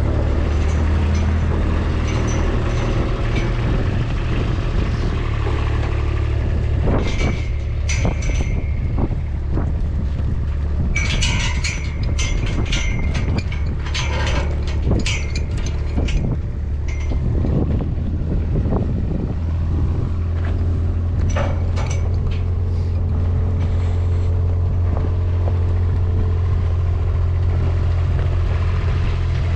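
Farm vehicle engine running steadily with a low hum, with metallic clanks and rattles between about 7 and 17 seconds in and again around 21 seconds.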